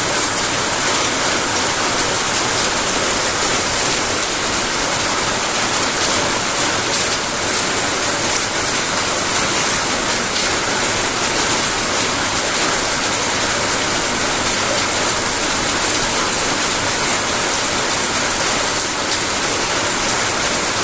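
Rain falling steadily: an even hiss flecked with the patter of drops.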